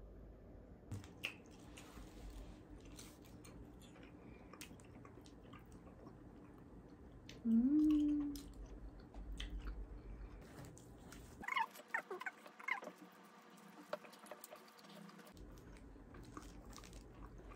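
Close-up eating sounds of a person chewing sauce-glazed chicken skewers: small wet clicks and bites, with a short hummed "mm" of enjoyment, rising in pitch, about eight seconds in.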